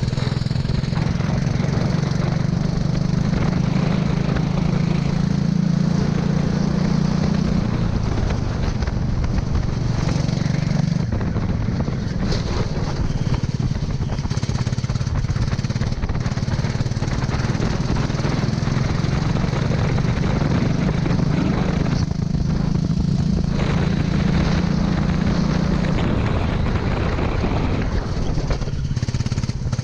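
Racing kart engine running hard on a wet track, its pitch holding high and dropping about a quarter of the way in and again near the end as the kart slows, over a steady noisy hiss.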